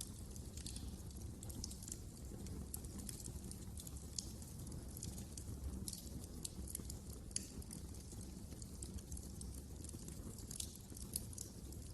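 Wood fire crackling in a fireplace: many irregular sharp pops and snaps over a low, steady rumble of the burning fire.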